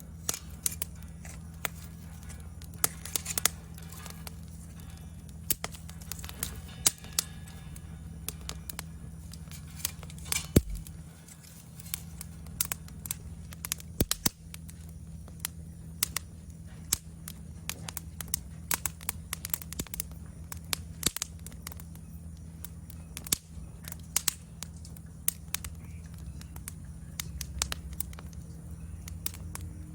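Wood fire in a fire pit crackling, with frequent irregular sharp pops over a steady low hum. Insects trill faintly and steadily in the background.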